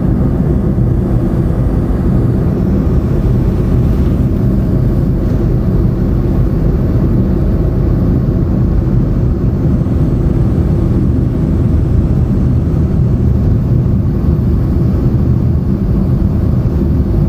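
Steady rumble of a moving car, engine and tyre noise, heard from inside the cabin; it stays even, with no sudden sounds.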